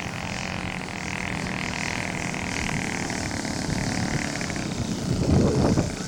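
Radio-controlled scale model airplane's engine running at a distance, a steady drone that fades about four seconds in, over low rumbling wind buffeting the microphone. A brief louder rumble comes near the end.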